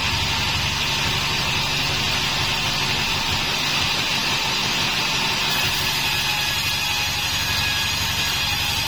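Homemade band sawmill running, a steady unbroken mechanical drone with a low hum under a strong high hiss.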